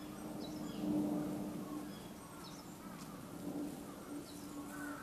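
Outdoor ambience with small birds chirping now and then over a steady low hum.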